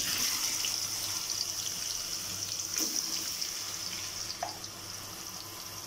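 Marinated chicken pieces sizzling in hot oil in a kadhai. The hiss starts suddenly as the chicken goes in and eases off a little, with one light knock about three seconds in.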